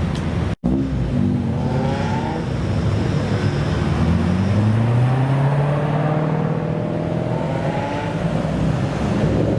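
Modified car's engine accelerating, its pitch climbing as it pulls away, after a brief silent break under a second in.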